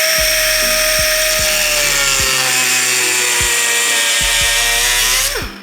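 High-speed electric rotary cutting tool running as it cuts thin aluminum sheet for a heat shield, its whine sagging slightly under load, then winding down near the end.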